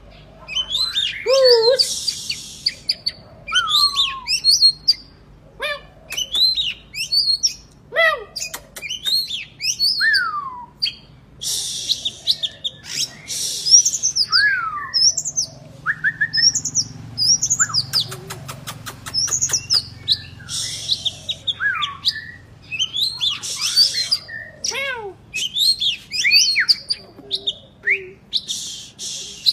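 Oriental magpie-robin (kacer) in full song: a continuous string of varied whistled phrases with rising and falling slurs, broken by harsh rasping notes, and a rapid run of clicks a little past the middle.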